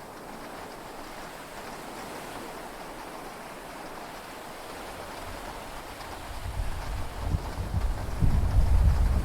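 Heavy rain falling steadily on a yacht's cabin. A deep rumble of thunder starts about two-thirds of the way in and grows louder toward the end.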